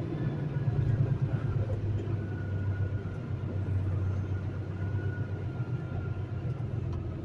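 Semi truck's diesel engine running at low speed as the rig pulls forward, a steady low rumble heard from inside the cab. A faint thin whine sits above it for a few seconds in the middle.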